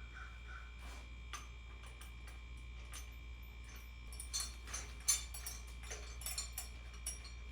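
Irregular metallic clicks and clinks of tools and engine parts being handled, sparse at first and coming thicker about four seconds in, over a steady electrical hum.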